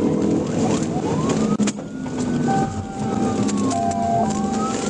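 Police siren wailing, its pitch rising and falling slowly in long sweeps about three seconds apart, over engine and road noise from the pursuing patrol vehicle. A steady higher tone sounds alongside it from about halfway through.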